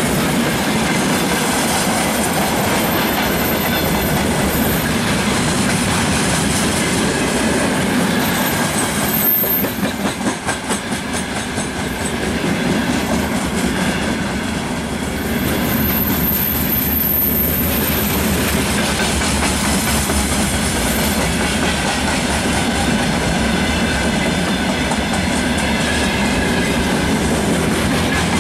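Freight wagons of a long goods train rolling past close by: steady noise of steel wheels on the rails, with a short stretch of rhythmic pulsing where the sound dips briefly about ten seconds in.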